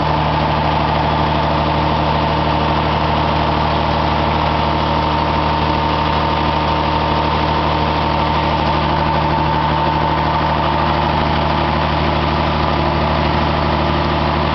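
Engine running on biogas at a steady idle, its speed unchanging, with a constant low drone and a steady whine.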